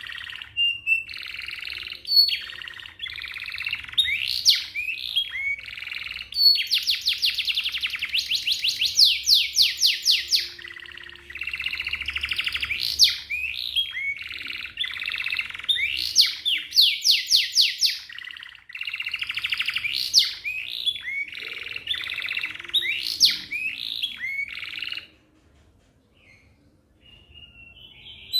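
Domestic canary singing long rolls of fast, rapidly repeated notes, trill after trill with brief breaks between phrases. The song stops for a couple of seconds near the end, then starts again.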